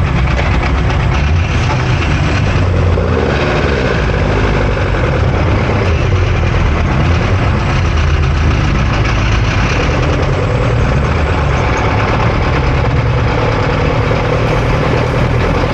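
Ford Cortina race car's engine running, heard loud from inside the car, steady with its pitch shifting a little a few seconds in.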